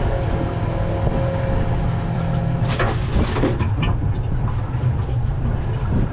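Outboard-powered boat under way: the engine runs steadily with a deep, even hum, along with hull and water noise. A short rush of noise comes about three seconds in.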